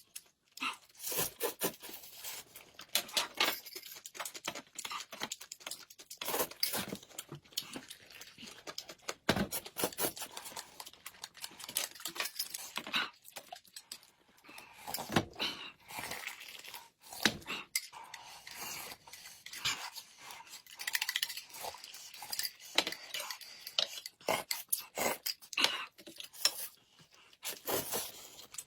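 Dishes and cutlery clattering, with rustling and tearing sounds: a long, irregular run of short clicks, clinks and scrapes.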